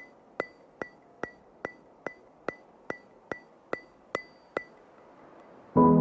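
Sharp, evenly spaced ticks with a short ringing tone, a little over two a second, stopping about three-quarters of the way through. Near the end, soft keyboard chords begin.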